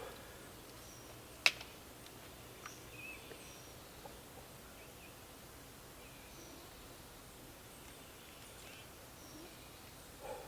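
Quiet woodland ambience with faint, scattered bird chirps, broken by a single sharp click or knock about a second and a half in.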